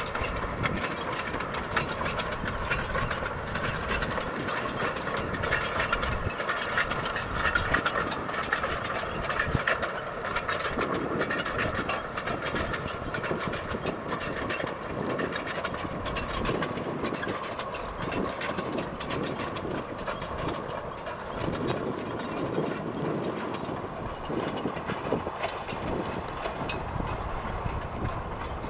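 Narrow-gauge industrial railway train running, wheels clattering and clicking on the track over a steady rumble.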